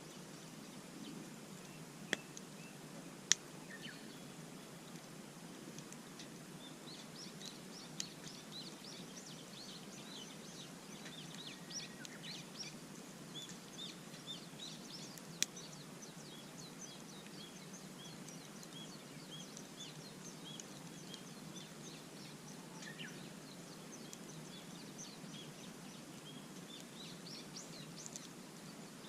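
Small songbirds twittering, with many short high chirps repeating through most of the stretch. Four sharp pops from a wood campfire stand out above them.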